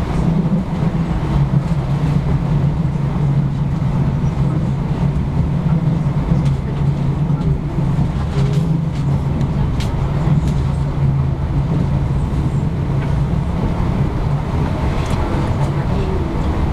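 Passenger train running at speed, heard from inside a passenger car: a steady low rumble with a few faint clicks.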